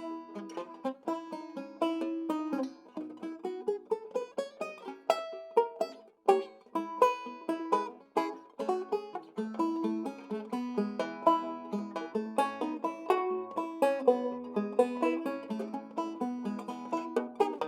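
A circa 1923 Weymann Keystone State guitar banjo playing a ragtime tune solo: a quick, steady stream of bright plucked notes over a bouncing bass line.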